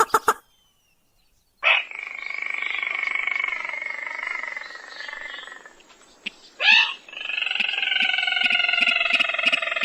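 Recorded call of a sintar, a rice-field rail, played as a hunting lure. A quick run of sharp notes at the start and a short gap are followed by two long, rough drawn-out calls. Each call opens with a sharp note, and light ticking runs through the second.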